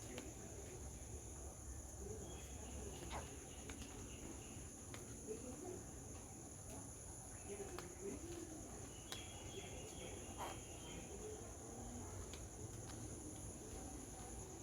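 Insects chirring as a steady chorus at two high pitches, with scattered faint clicks and a few short higher chirps.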